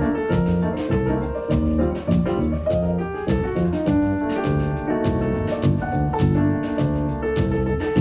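Jazz piano trio music: piano playing with bass and light drums keeping time on cymbals.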